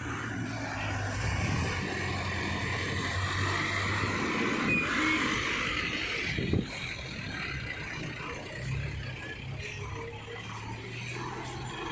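Heavy diesel vehicles, a bus and an Eicher truck, running slowly past each other with a steady low engine drone. A louder hissing noise rises midway, and there is one sharp knock about six and a half seconds in.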